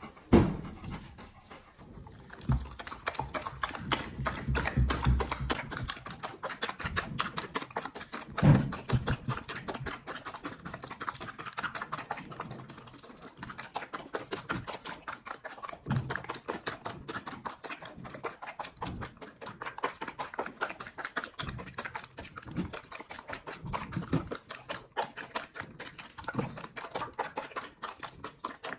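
Dog eating from a bowl: a fast, steady run of small clicks and crunches, with a few louder knocks.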